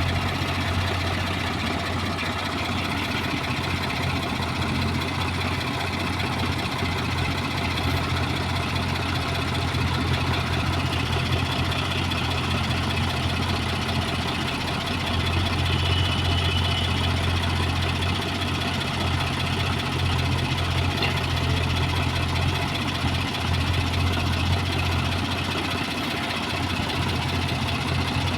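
Diesel machinery engine running steadily at a constant speed, with a low hum that swells slightly now and then.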